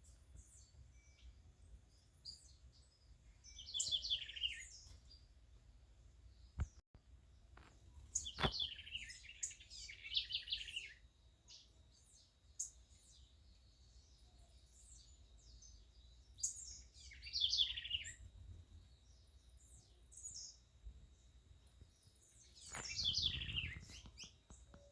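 Songbirds singing: bursts of quick chirps that fall in pitch, repeated about every six seconds, with single chirps between. Two sharp clicks sound about seven and eight and a half seconds in.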